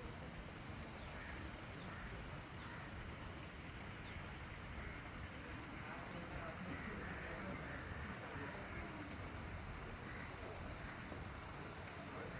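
Outdoor ambience: a steady background hiss and rumble with small birds giving short, high chirps that slide downward, often in pairs, every second or two from about five seconds in.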